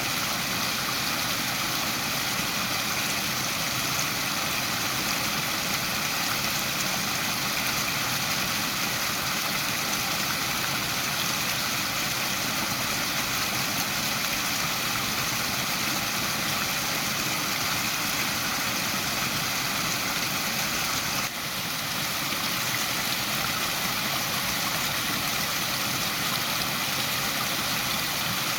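Waterfall: water falling and splashing in a steady, unbroken rush, with a brief dip in level about two-thirds of the way through.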